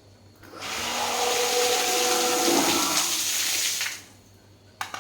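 A 750 W electric sump pump running and pushing water: a steady rush with a wavering motor hum that starts about half a second in and stops shortly before four seconds. Two short clicks follow near the end.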